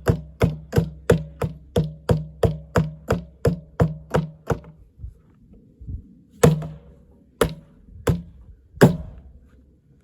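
Water heater's sheet-steel casing being struck over and over, about three quick blows a second, each with a short low metallic ring. After a brief pause about halfway through come four heavier, slower blows.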